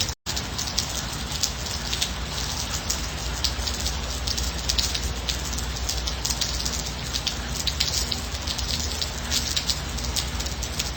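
Steady light rain with many individual drops pattering close by. The sound cuts out for an instant just after it begins, then carries on unchanged.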